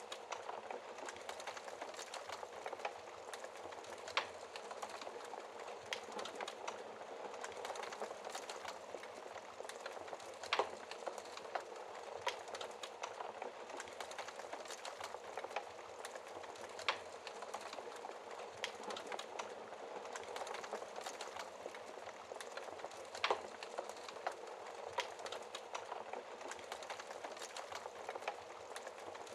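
Wood fire in a fireplace crackling steadily, with a louder sharp pop every few seconds.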